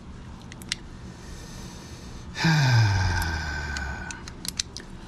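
A man's long breathy sigh, falling in pitch and then levelling off, about two and a half seconds in, with a few small handling clicks before and after it.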